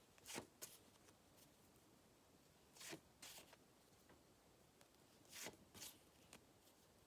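Near silence broken every couple of seconds by a soft paper rustle, each a quick double swish: flashcards being handled and changed one after another.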